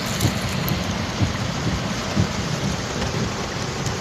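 Heavy rain falling: a steady, dense hiss with low rumbling thumps underneath.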